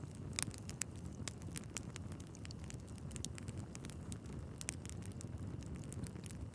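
Wood fire burning in a fireplace: a steady low rumble of the flames with irregular sharp crackles and pops from the logs, a few louder pops among them.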